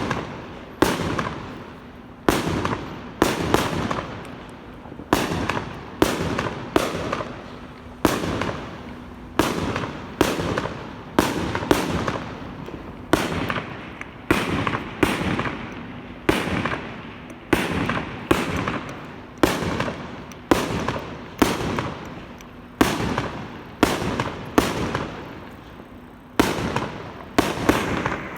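Fireworks going off in a rapid, continuous series of sharp bangs, about one a second, each bang trailing off before the next.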